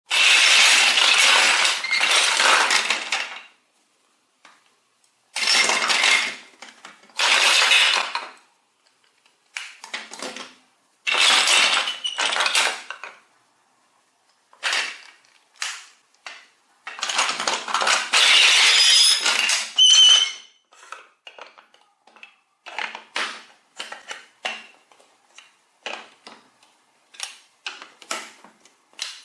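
Toy vehicles and track pieces clattering and rattling together in several bursts of a few seconds each, followed by a run of short clicks and knocks.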